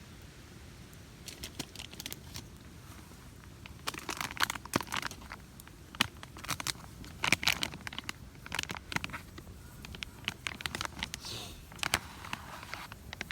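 Open wood campfire crackling, with irregular sharp pops and snaps coming in clusters.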